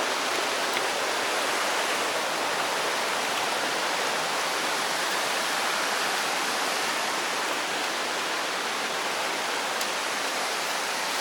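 Steady, even rush of flowing fresh water.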